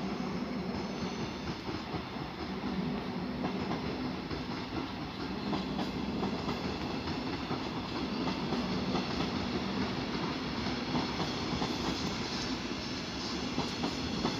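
A train moving on the tracks through a railway station, a steady rolling noise with a low hum underneath.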